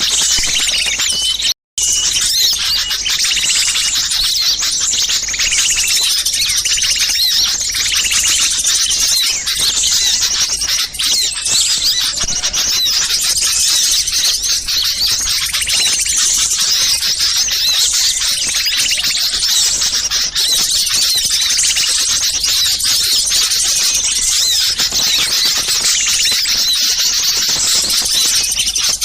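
Dense, agitated chorus of many small songbirds chattering and chirping at once, a bird-lure recording of excited or alarm-calling small birds; it breaks off for a moment about one and a half seconds in, then carries on unbroken.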